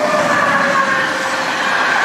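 Container wagons of an electric-hauled freight train rushing past at speed, the wheels running loud and steady on the rails with a whining tone mixed in that sags slightly in pitch.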